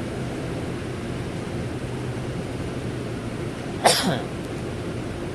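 Steady running noise inside a local electric multiple-unit commuter train, with a low hum. About four seconds in, a single short, sharp cough-like burst from a person stands out above it.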